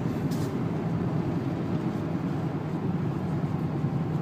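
Steady in-cabin drive noise of a Renault 2.0-litre turbo diesel car at low speed on a wet road: a low engine hum with tyre and road noise, and a short hiss just after the start.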